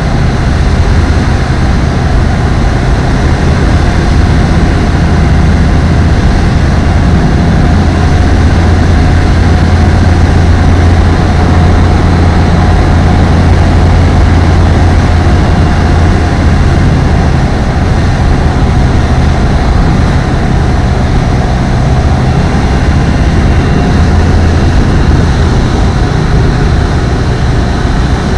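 Apollo Fox ultralight aircraft's engine and propeller running steadily: a loud, even low drone with a fainter steady whine above it.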